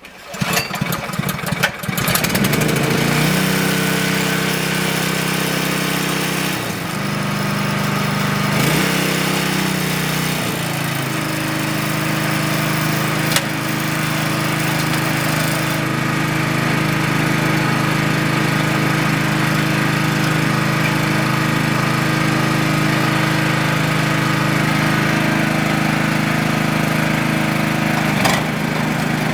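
Honda HSS760n snowblower's 5.8 hp single-cylinder four-stroke petrol engine starting about a second in and then running steadily. Its speed dips and changes a few times between about six and eleven seconds in, then holds even.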